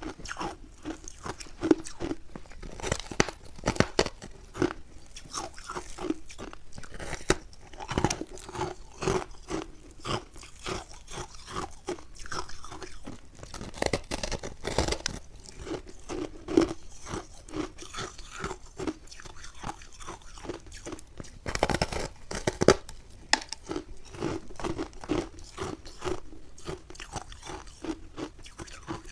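Close-miked biting and chewing of refrozen ice made with milk and matcha powder: a continuous run of crisp, crunchy cracks at about two chews a second.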